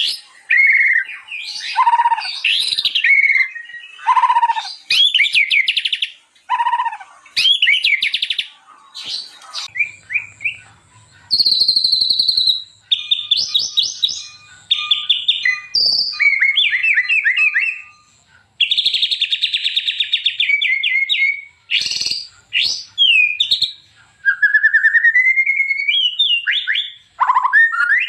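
White-rumped shama singing energetically: a long run of loud, varied phrases of clear whistles, fast trills and chattering notes, broken by short pauses, including several falling whistles and a rising whistle near the end.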